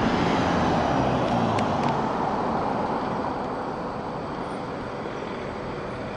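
Road traffic noise, an even rush of passing vehicles. It is louder for the first couple of seconds, then eases off and holds steady.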